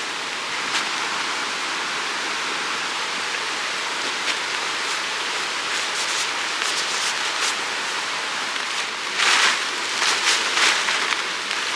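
A steady rushing hiss of water, with faint scattered ticks and a few louder surges lasting about a second, around nine to eleven seconds in.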